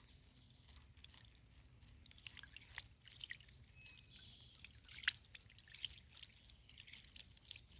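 Small water fountain set in an old wash tub, water faintly trickling and dripping into the basin in many irregular little plinks.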